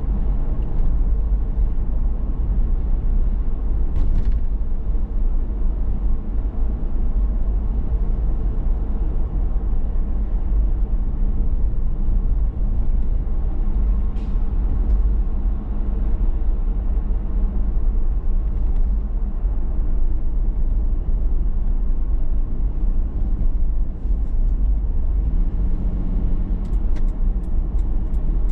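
Steady low rumble of a 2019 Toyota 4Runner TRD Pro being driven, its engine and road noise continuous throughout, with a few faint sharp ticks near the end.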